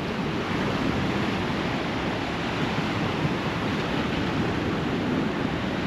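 Sea surf washing onto a sandy beach, a steady rushing noise with no single breaking wave standing out.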